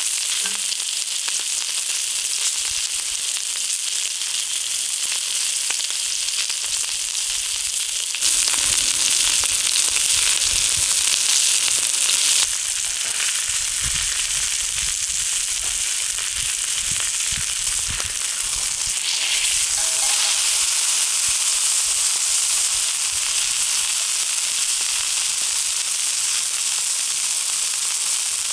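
Thick beef steak sizzling on a hot iron griddle, a steady frying hiss that swells louder for about four seconds a third of the way in, then settles.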